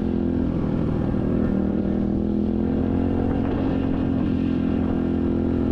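SSR 125cc dirt bike's single-cylinder four-stroke engine running at a steady low throttle while ridden, its pitch wavering only slightly.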